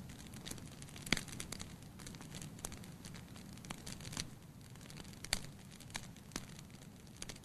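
Wood fire crackling in a fireplace: irregular sharp pops and snaps, a few a second, over a low steady rumble.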